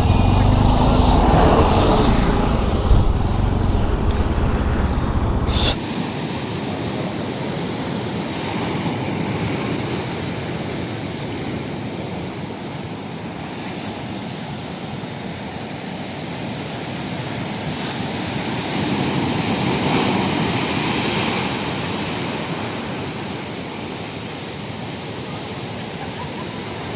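Sea surf on a beach, a steady rushing that swells and then eases about two-thirds of the way through. It is preceded by a few seconds of heavy low wind rumble on the microphone that cuts off abruptly.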